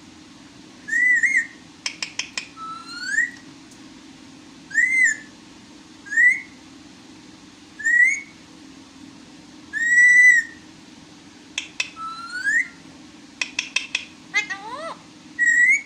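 Pet parrot whistling a series of short notes, about eight, some rising and some arched, one held longer in the middle, with quick runs of clicks between them.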